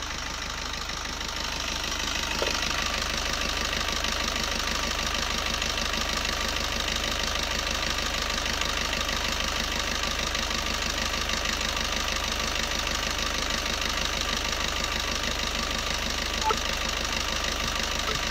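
Maruti Baleno 1.3-litre diesel engine idling steadily with the bonnet open, while the carbon-cleaning liquid is fed into it by syringe. The running note gets a little louder about two seconds in, then holds even.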